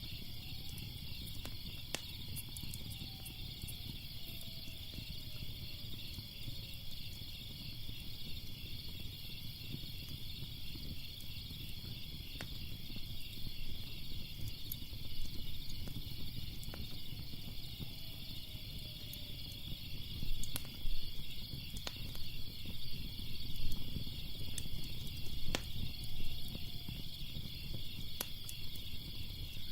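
A fire crackling, with scattered sharp pops over a low rumble, set against a steady, pulsing chorus of crickets. The pops are louder and more frequent in the last third.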